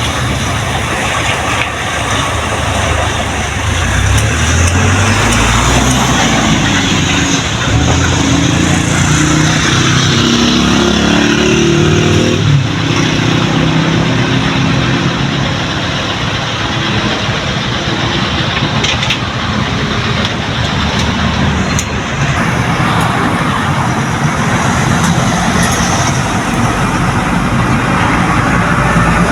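Road traffic with a heavy truck passing. Its engine climbs in pitch over several seconds in the first half, over a steady roar of road noise.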